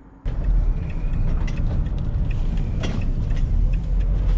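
Van driving along, a steady low rumble of engine and road, with loose metal in the back rattling and clicking. It starts abruptly just after the start.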